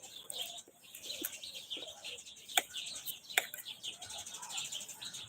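Small birds chirping repeatedly in quick, high calls, with two sharp clicks in the middle, about a second apart.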